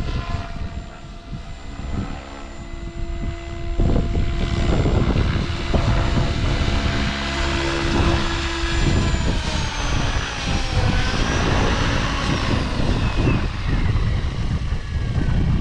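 An aircraft motor passing: a steady tone, then a pitch that falls in a long glide about ten to thirteen seconds in as it goes by, under heavy wind rumble on the microphone.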